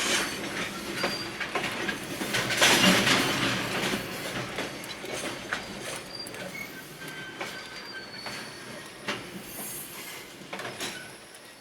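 Freight train of Koki container wagons rolling into a station and slowing, with wheels clicking over rail joints and a few short high squeals from wheels or brakes. The sound grows gradually quieter as the train slows.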